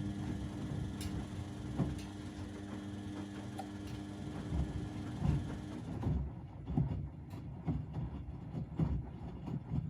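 Washing machine running a wash: a steady motor hum with occasional clicks stops about six seconds in, followed by irregular low thuds of the drum and laundry.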